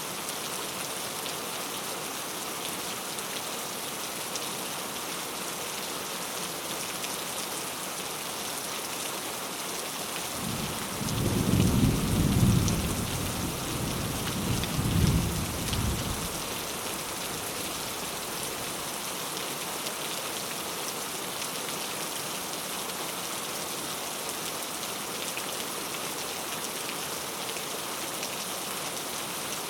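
Steady rain falling in an even hiss. About ten seconds in, a rumble of thunder swells, peaks twice and dies away after a few seconds.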